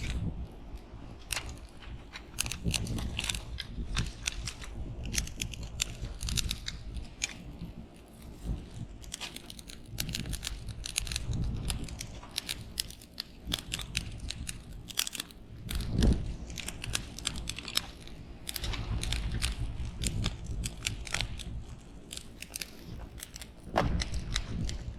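Dense, irregular crackling and snapping clicks over a low rumble.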